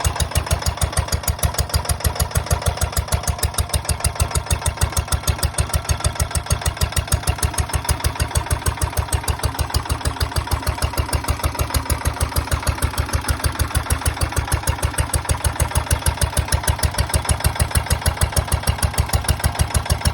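Vintage Ruston Hornsby PB 1½-2 hp single-cylinder stationary engine running steadily, with an even beat of about four exhaust pulses a second.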